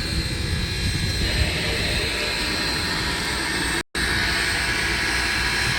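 Steady low rumble and hiss of a locomotive being turned on a motor-driven railway turntable. The sound cuts out for a moment about four seconds in.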